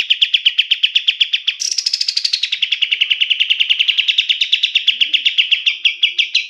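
Kapas tembak songbird singing its rapid machine-gun trill ('tembakan'), a long unbroken roll of about a dozen sharp notes a second. About a second and a half in, the trill jumps higher and slides back down, then runs on steadily.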